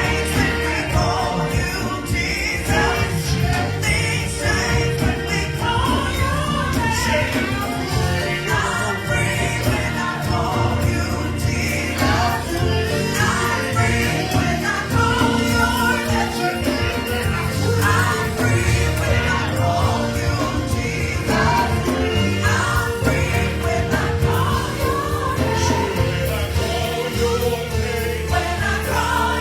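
Gospel choir singing a Christmas cantata song over a sustained instrumental accompaniment with steady low bass notes.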